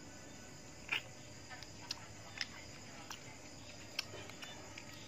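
Close-up eating sounds: chewing with about five sharp mouth clicks and smacks, the loudest about a second in. Behind them, crickets chirr steadily.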